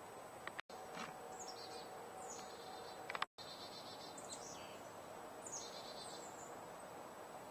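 A bird singing faintly over steady background hiss: short falling chirp phrases repeated every second or two. The sound cuts out completely twice for a split second.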